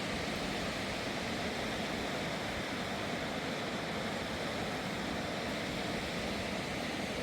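A swollen mountain river rushing past in a steady, unbroken roar of water.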